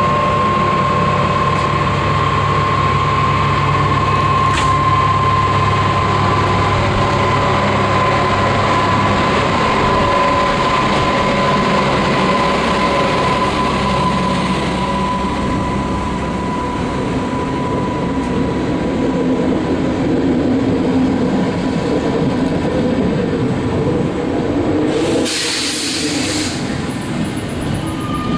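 Strukton electric locomotive 1824 and its passenger coaches rolling past along a station platform, with a steady rumble of wheels and a high whine that slowly drops in pitch. A brief hiss comes about 25 seconds in.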